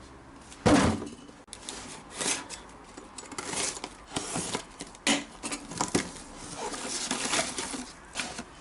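Packaging and car parts being handled and unpacked from a parcel: rustling with irregular clicks and clatter, and a loud knock about a second in.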